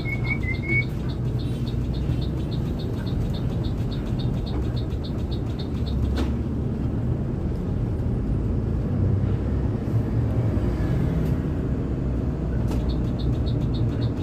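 Intercity bus running along the road, heard from inside: a steady low engine and road rumble. A short high chirp comes right at the start, and a faint fast ticking is heard during the first half and again near the end.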